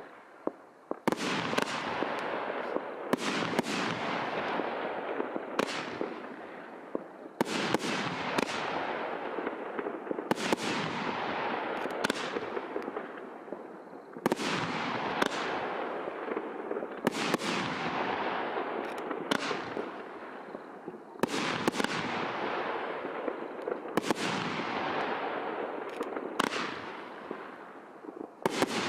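A 500 g, 19-shot consumer firework cake firing volley after volley of double-break shells. Sharp reports come in close pairs about every two seconds, each fading out over a second or so.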